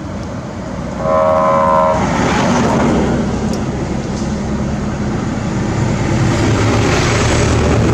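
A horn sounds for about a second, about a second in, over a steady vehicle rumble that carries on to the end.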